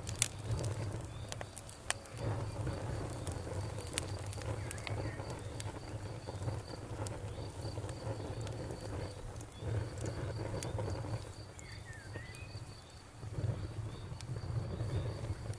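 Campfire burning with a low rumble and scattered sharp crackles and pops, the sharpest just after the start. Crickets chirp steadily in a rapid high trill, with a couple of brief bird chirps.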